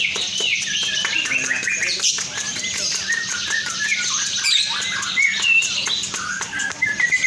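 Lovebirds chattering continuously: a dense, unbroken run of rapid high chirps and short downward-sliding notes.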